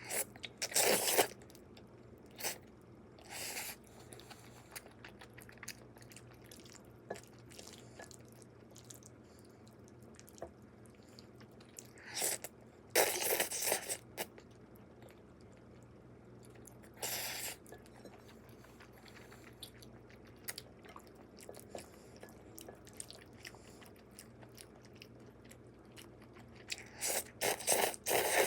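A person eating: bites and chewing come in short bursts every few seconds, over a faint steady low hum.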